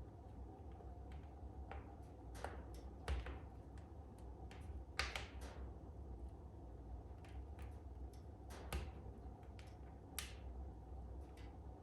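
Wood fire in a fireplace crackling: irregular sharp pops and snaps, about one a second, over a steady low rumble of the burning fire.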